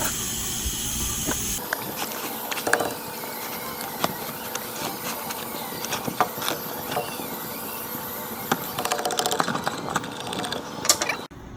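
Scattered light clicks and knocks of metal brake parts being worked by hand out of a winch parking brake housing, over a steady background hiss. The clicks bunch together near the end.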